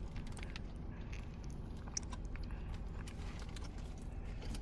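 Someone biting into and chewing a sausage, egg and hash brown breakfast burrito, with small crackles over a low steady hum.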